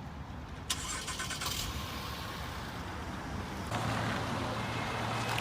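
Car engine and road noise as picked up by a dashcam, with a steady low hum coming in about two-thirds of the way through.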